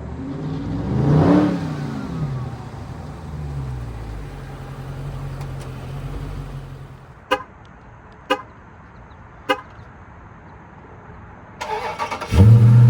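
Dodge Charger 392 Scat Pack's 6.4-litre HEMI V8 blipped once and falling back to a steady idle, then three short sharp chirps about a second apart. Near the end the engine fires up loudly and settles into a steady run.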